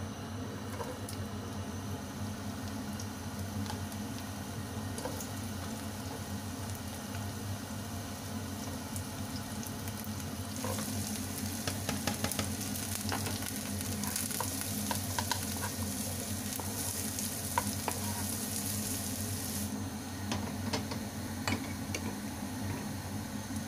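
Sliced shallots and garlic sizzling in hot oil in a nonstick wok, stirred with a utensil that clicks and scrapes against the pan. The sizzle starts about ten seconds in, is loudest in the middle and eases near the end, over a steady low hum.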